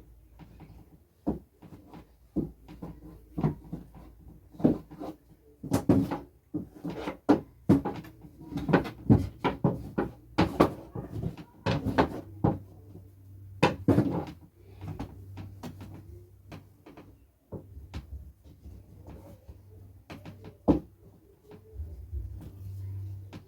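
Irregular knocks and thumps as a bed sheet is tucked in around a mattress, thickest in the middle and trailing off to an odd single knock near the end.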